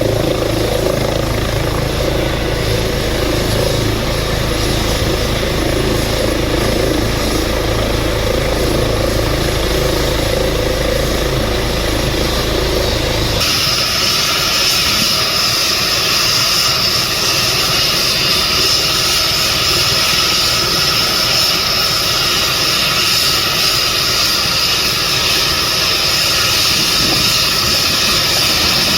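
Air-ambulance helicopter running close by, a loud steady rotor and engine noise. About halfway through, the sound changes abruptly: the low rotor rumble drops away and a high, steady turbine whine comes to the fore.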